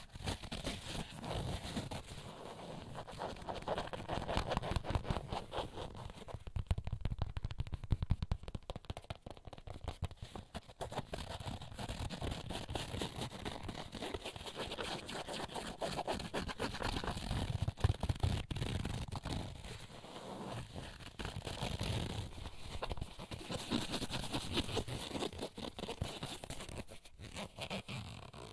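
Close-miked fingernail tapping and scratching on small objects from a bag, in a fast, dense run of fine clicks and scrapes that swells and eases.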